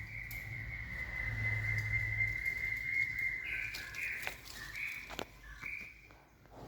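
A long, steady whistle held for about four seconds, then several shorter whistled notes at slightly different pitches, with a couple of sharp clicks.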